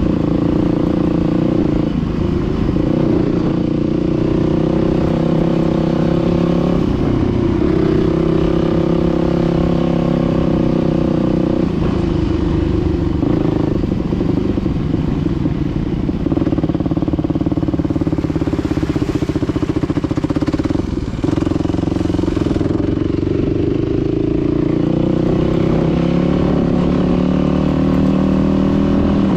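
Dirt bike engine running under way, its pitch rising and falling every few seconds with throttle and gear changes.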